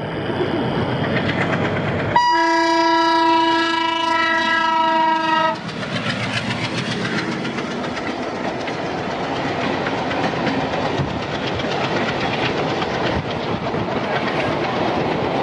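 A locomotive horn sounds one long steady blast of about three seconds, starting about two seconds in. Then the rumble and wheel clatter of two trains crossing on adjacent tracks, a diesel-hauled passenger train rolling past the moving coach.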